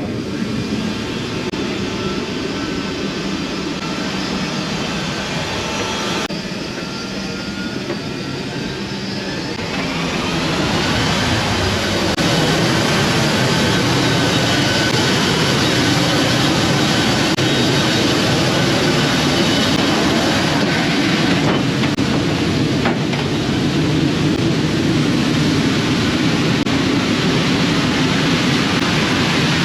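C-17 Globemaster III's Pratt & Whitney F117 turbofan engines running. About ten seconds in, a turbine whine rises and levels off as the sound grows louder: an engine spooling up to idle during the engine start.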